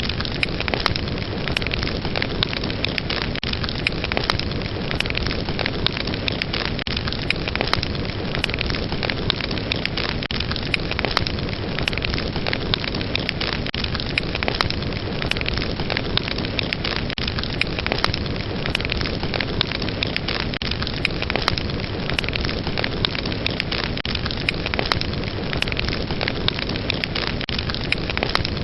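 Fire crackling: a steady rushing hiss of flames with many sharp pops and snaps scattered irregularly throughout.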